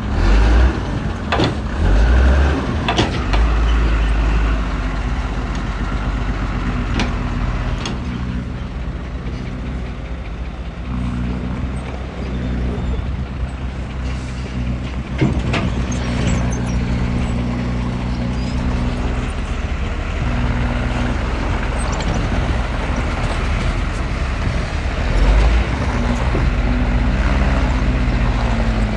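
Heavy diesel engine running steadily, its pitch shifting now and then with the load, with sharp metallic clanks several times, most of them in the first few seconds and around the middle.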